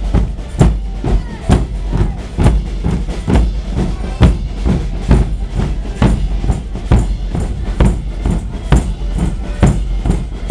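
A Portuguese bombos group playing together: big bass drums and snare drums beating out a steady, loud rhythm of about two strong beats a second with lighter strokes between.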